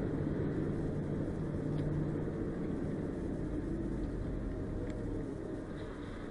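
A vehicle engine running steadily, a low rumble with a steady hum that eases off slightly near the end.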